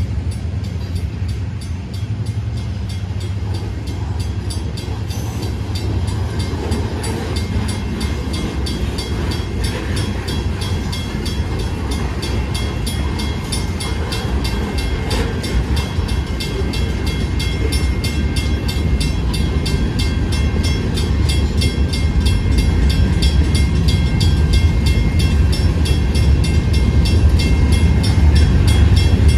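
Diesel locomotive engine rumbling as the train moves out through the street crossing, growing louder toward the end. Above it, the crossing's warning bell rings rapidly and steadily.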